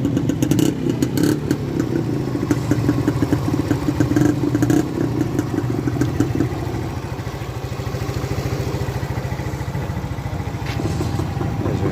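Motorcycle engine running just after an electric-button start, louder and rougher with some clatter for the first six seconds or so, then settling to a steadier, slightly quieter idle.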